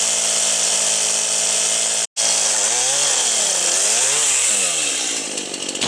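Chainsaw running steadily, breaking off for a moment about two seconds in, then revving up and back down twice as it cuts into the hollow catalpa tree limb.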